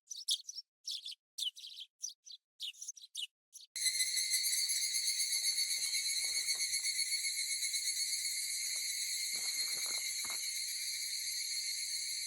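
Higurashi (evening cicadas, Tanna japonensis) calling: first a run of short, separate, high pulsed phrases, then about four seconds in a dense, continuous, high cicada chorus sets in and holds steady.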